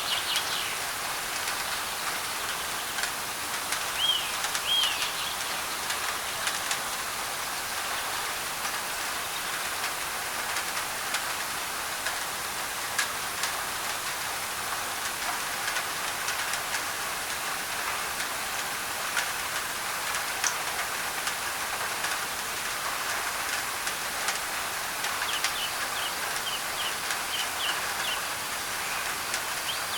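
Rain pattering on a thin tin roof under a steady hiss of white noise, with scattered sharp drop ticks. A bird gives two short chirps about four seconds in and a quick run of chirps near the end.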